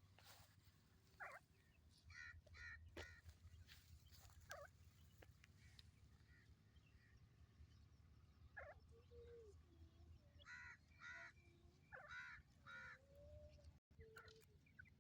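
Teetar (francolins) calling in short bursts of quickly repeated notes, in clusters near the start, about two seconds in and again near the end, over a steady low hum.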